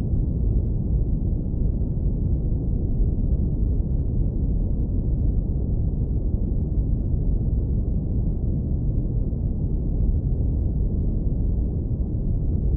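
Low-pass filtered brown noise: a steady, deep rumbling hiss with almost nothing in the upper range.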